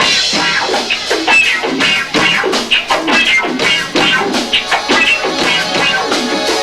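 Live rock band playing loud and fast, with two drum kits pounding under electric guitar and bass. It is picked up by a 1990s camcorder's built-in microphone, so the sound is muddy and low-fi.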